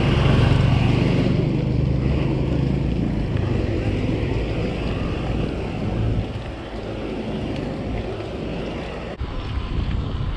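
Wind buffeting and riding rumble on a bicycle-mounted POV camera's microphone during a mountain bike ride, loudest in the first few seconds and easing after about six seconds.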